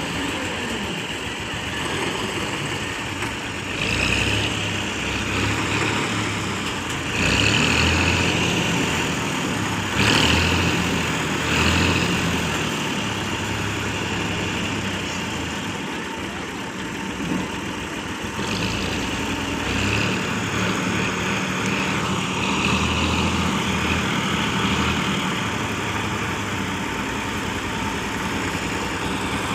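Tractor engine running steadily, getting louder several times for a second or two.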